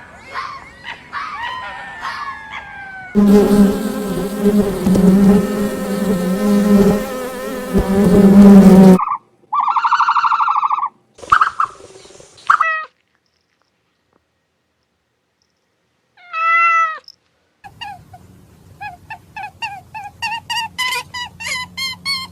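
Several different animal calls one after another, with abrupt changes between them. A long loud call runs from about three seconds to nine seconds in. About three seconds of silence come a little past the middle. A fast run of short repeated calls fills the last few seconds.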